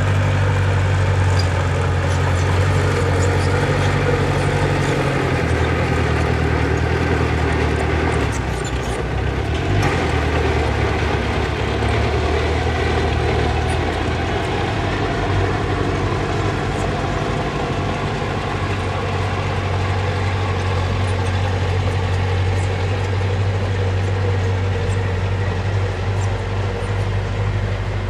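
Diesel engine of earthmoving machinery running steadily, its low hum changing in pitch and strength about six and ten seconds in, with a brief burst of rougher noise between them.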